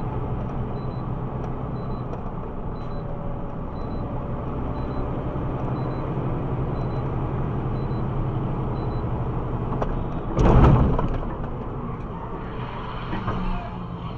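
A vehicle driving, with steady engine hum and road noise. A short, loud thump comes about ten and a half seconds in.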